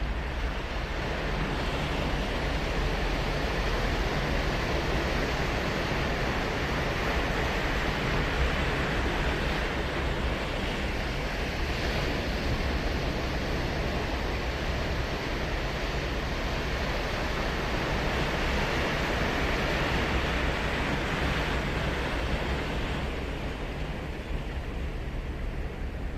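Ocean surf washing onto a sandy beach: a continuous rushing wash that swells and eases, with a low rumble underneath, softening a little near the end.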